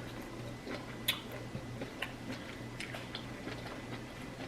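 Close-up chewing and mouth sounds of a person eating: irregular small wet clicks and smacks, the sharpest about a second in, over a steady low hum.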